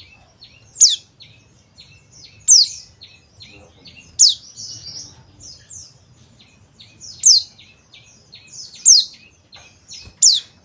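Male pleci (Zosterops white-eye) of the dakun Bali type calling: six sharp, steeply falling high whistles, roughly one every one and a half seconds with a longer gap near the middle, among a run of softer quick chirps.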